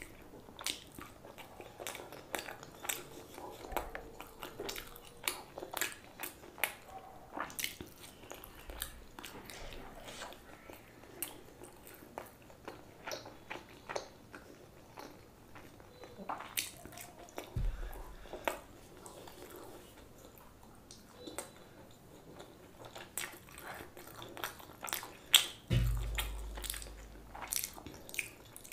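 Close-miked chewing and biting: dense, irregular mouth clicks and smacks of someone eating momos and chowmein noodles. A brief low thump comes about two-thirds of the way through, and a louder low thump near the end.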